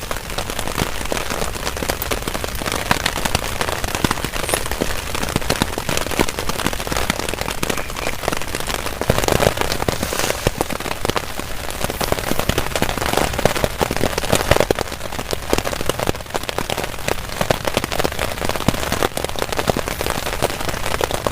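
Heavy rain falling steadily on a tarp shelter, a dense continuous hiss full of individual drop strikes.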